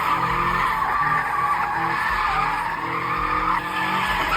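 A car spinning its tires: a steady tire squeal with the engine revving up and down underneath.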